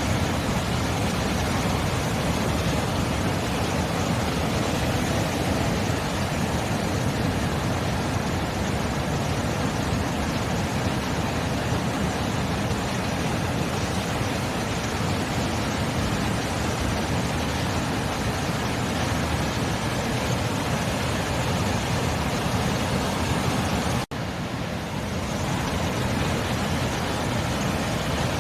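Steady sea surf: a continuous wash of waves without a break, briefly cutting out and swelling back a few seconds before the end.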